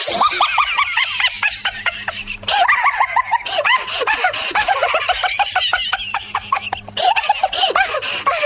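High-pitched laughter in rapid, repeated bursts of about five a second, in long runs broken by brief pauses for breath.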